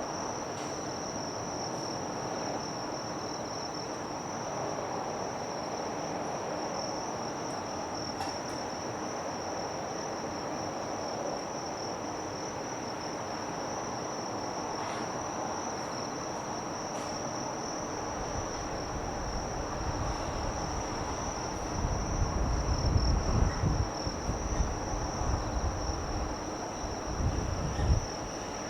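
Insects trilling in one steady, unbroken high tone. In the last third a low, uneven rumble swells up beneath it.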